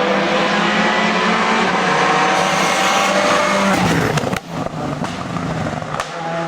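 Race car engine running at high revs, with a steady pitch. It cuts out briefly about four and a half seconds in, runs a little quieter after that, and dips again near the end.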